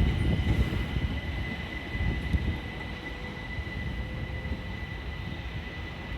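A train moving away, its low rumble fading steadily, with a thin steady high whine above it.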